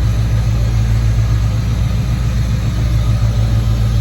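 Car engine running at a steady idle, a constant low rumble with no revving.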